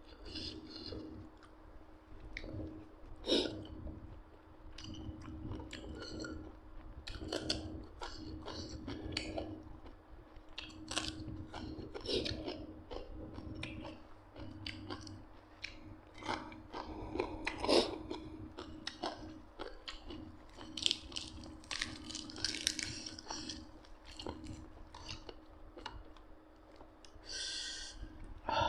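A person chewing and biting food close to the microphone, with irregular wet crunches and clicks: eating grilled beef nam tok.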